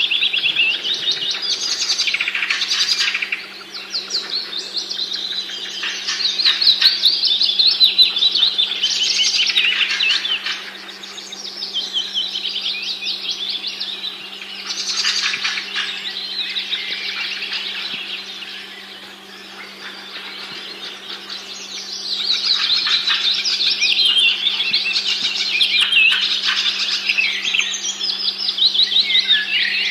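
A chorus of many small birds chirping and twittering rapidly together, swelling and fading in waves, over a steady low hum.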